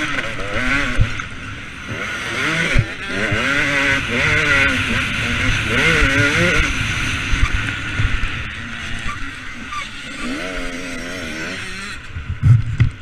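KTM 250 SX two-stroke single-cylinder motocross engine revving up and down as the bike is ridden, its pitch rising and falling repeatedly. The revving eases off after about eight seconds, and there are a couple of low thumps near the end.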